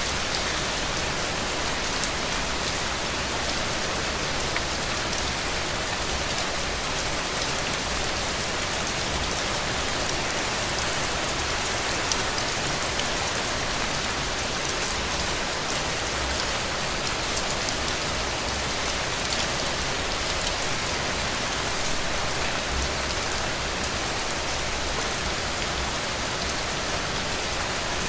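Heavy rain falling steadily, a dense even hiss with many fine drop patters throughout.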